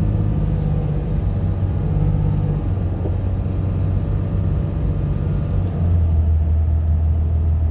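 Car engine and road noise heard from inside the moving car on a snowy mountain road, a steady low drone. About six seconds in, the engine note drops lower and gets a little louder.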